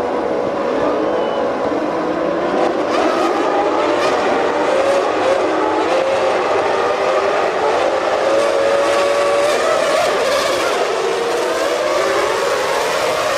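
Several Formula One cars' engines revving high together, their overlapping pitches rising and falling as they run past and change gear.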